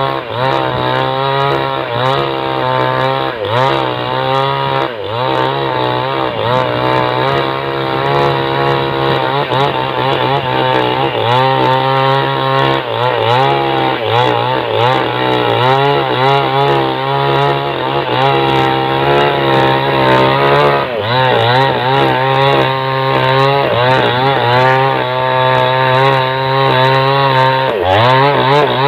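Small two-stroke chainsaw running at high revs, cutting into a log. The engine note repeatedly sags as the chain bites into the wood and then picks back up.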